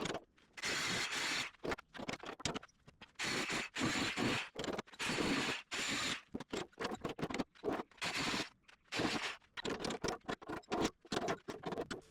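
Scraping, grating noise of steel being cut away at the old welds of a loader bucket's cutting edge, in short bursts broken by abrupt gaps.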